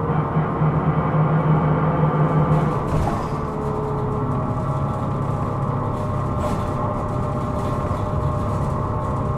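Hino Rainbow II (SDG-KR290J1) non-step bus running, heard from inside the cabin: a steady engine drone overlaid with ringing, whining tones, the abnormal noise the recording is named for. The drone is strongest for the first three seconds or so, then eases a little.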